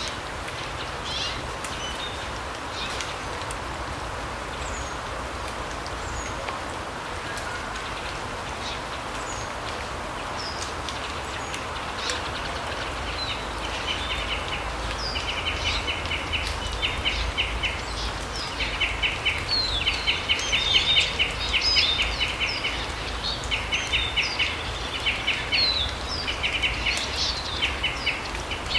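Forest ambience: a steady rush of background noise with scattered short high bird chirps. From about halfway in, a bird gives repeated runs of rapid high-pitched pulsed calls, each run lasting about half a second to a second.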